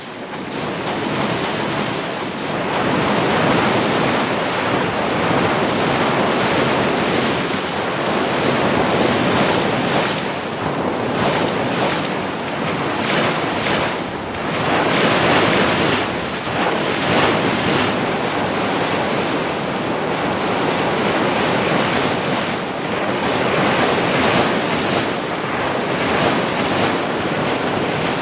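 Ocean waves breaking and washing on the shore, a steady rush of surf that swells and eases every few seconds, with wind on the microphone.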